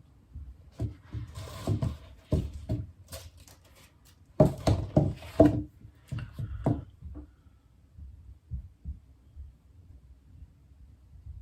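A run of knocks and clattering, as of hard objects being handled and set down, for about six seconds, loudest a little before the middle, then a few faint taps.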